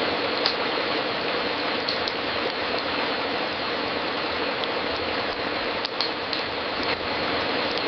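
Fireplace crackling steadily: a dense hiss of small crackles with a few sharper pops, two of them close together near the end.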